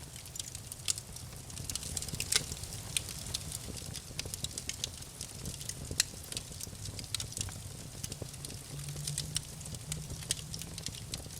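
Wood fire crackling in a fireplace, with irregular sharp pops and snaps, several a second, over a steady low rumble.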